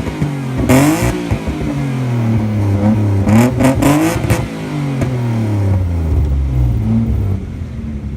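Modified car engine revved hard for a rev contest: quick throttle blips whose pitch shoots up and falls back several times, with sharp cracks about a second in and around four seconds in. After that it drops back to a lower, steadier run.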